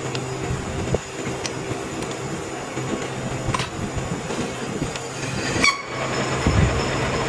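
Heavy workshop machinery running with a steady hum and grinding noise, with a few sharp metallic clicks and one louder clank just before six seconds in.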